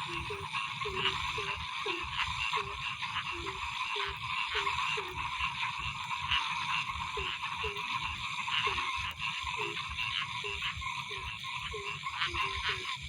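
Frogs croaking in a chorus: short, rising calls repeating about twice a second, over a dense, steady, higher-pitched chorus and a low rumble.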